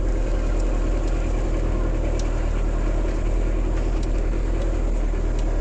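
A vehicle's engine idling steadily, an even low hum that does not change.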